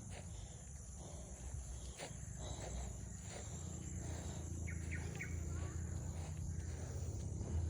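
Insects, crickets or the like, keeping up a steady high-pitched drone outdoors, over a low rumble. A couple of faint short chirps come about five seconds in.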